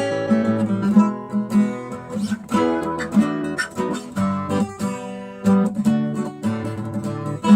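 Background music on acoustic guitar, plucked and strummed notes.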